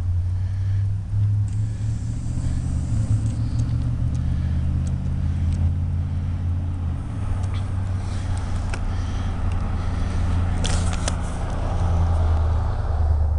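A low, steady engine drone that runs throughout, with a couple of sharp clicks about eleven seconds in.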